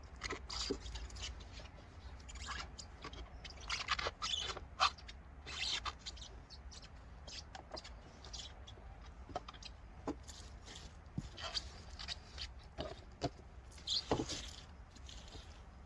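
Irregular rustling, scraping and light knocks from a beehive being handled as it is closed up, with its lid and plastic wrap put back in place.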